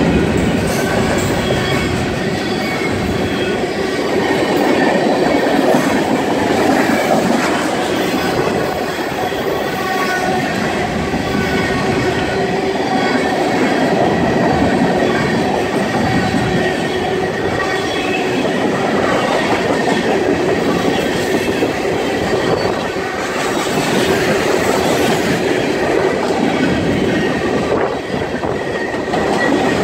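Freight cars of a mixed manifest train rolling past close by: a loud, steady rumble and rattle of steel wheels on the rails, with a few thin steady squealing tones above it.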